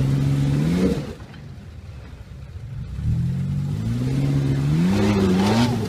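4x4's engine revving hard under load as it tries to climb a steep rock ledge. The pitch climbs for about a second, falls back, then rises again for a longer pull from about three seconds in.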